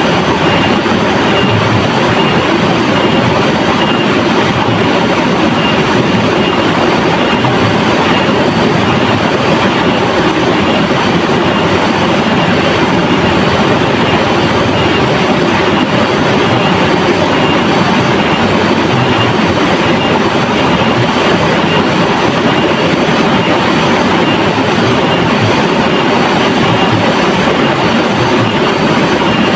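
River water flowing, a steady, even sound with no breaks.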